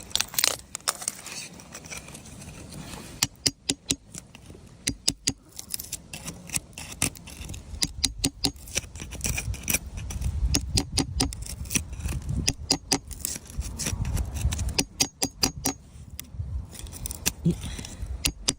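Clusters of sharp clicks and clinks of hard stones knocking and scraping together, over a low rumble on the microphone.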